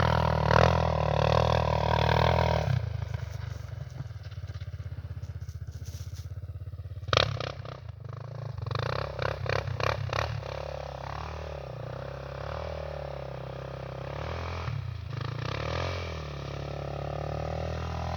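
Honda sport quad's single-cylinder four-stroke engine running hard for about three seconds, then dropping to a lumpy idle with each firing stroke audible. A sharp clatter comes about seven seconds in, and then the engine is revved up and down through the rest.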